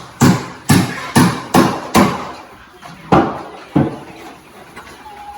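A series of sharp knocks at about two a second, then a pause after about two seconds and two more knocks.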